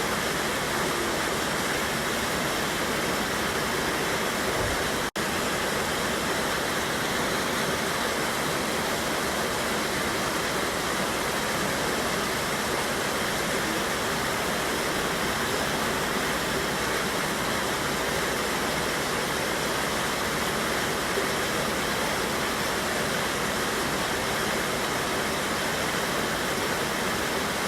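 Steady rushing of a river waterfall, an even wash of falling water that cuts out for an instant about five seconds in.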